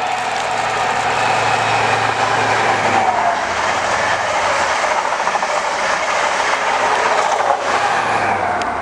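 High Speed Train with diesel Class 43 power cars passing through the station at speed: a loud, steady rush of wheels on rail with some clatter, and a faint engine tone underneath.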